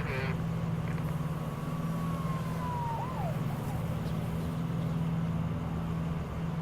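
Steady low hum of a vehicle running, with a faint siren wail that glides slowly downward and then rises and falls once around the middle.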